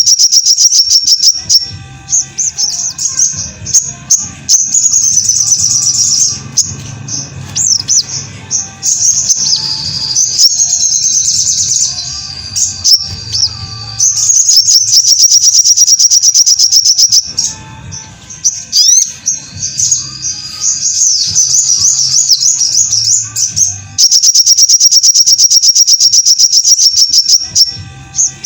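Crimson sunbird (sogok ontong) singing: long high, very rapid trills at the start, in the middle and near the end, broken by varied squeaky, chattering phrases.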